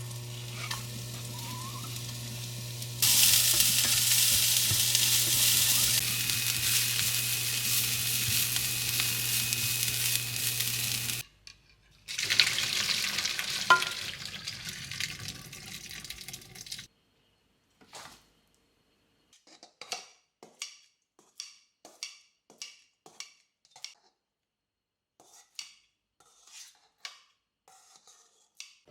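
Food sizzling in a hot pan, loud for about eight seconds over a steady low hum, then cut off suddenly. After a break a quieter sizzle follows, then a run of light, irregular taps, about one or two a second.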